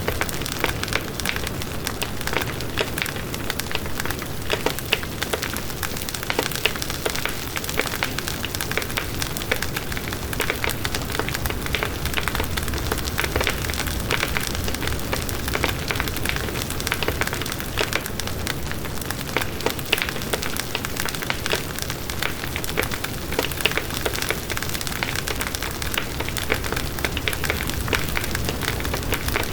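Campfire burning steadily, with dense, irregular crackles and pops of burning wood over a low rumble of flame.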